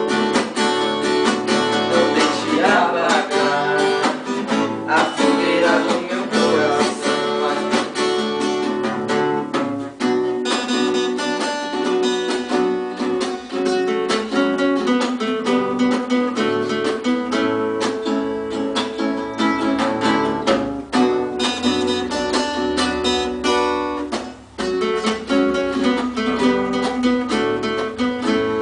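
Acoustic guitar playing a quick plucked solo, many notes in fast succession.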